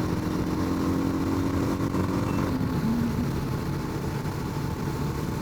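Rieju motorcycle engine running at a steady cruise under wind noise, its note dropping in pitch about two and a half seconds in as the bike eases off.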